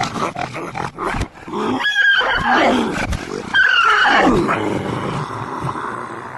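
Animated-cartoon soundtrack played backwards: loud, roar-like sounds with sliding pitch, not speech.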